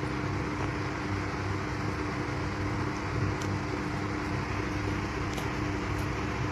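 Steady machine-like hum and hiss, as from a fan or air conditioner running, with a constant low tone and a few faint ticks.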